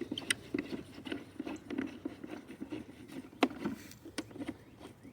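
Garden hose coupling being pushed and threaded onto a pressure washer's water inlet: irregular small clicks, knocks and rubbing of the fittings, with one sharper knock about three and a half seconds in.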